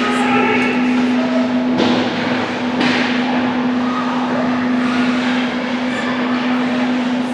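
Ice hockey game on a rink: skates scraping across the ice, with two sharp knocks of stick or puck about two and three seconds in, over a steady low hum.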